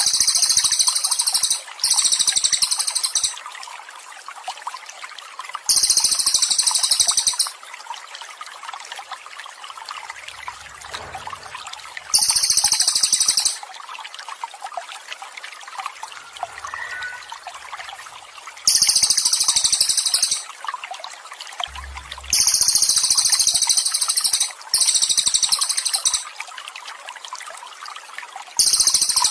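Water trickling steadily, with a songbird's very high, rapid buzzy trill repeated about eight times, each phrase lasting a second or two, with pauses of a few seconds between them.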